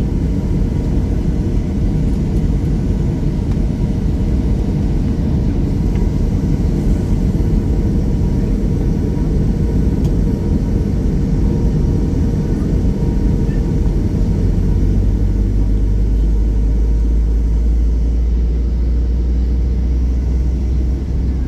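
Boeing 737-800's CFM56 engines and airframe heard from inside the cabin: a steady loud rumble that deepens and strengthens about two-thirds of the way in.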